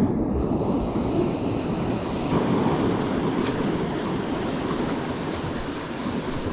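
Surf breaking and washing up the beach in a steady rush, with wind buffeting the microphone; the wash gets brighter and hissier about two seconds in.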